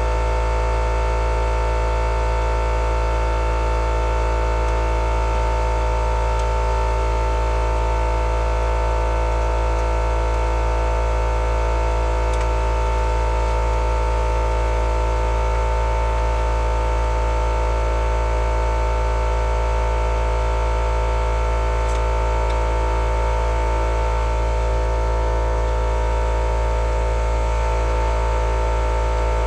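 Loud, steady hum made of several fixed tones over a deep low drone, without any change in pitch or level.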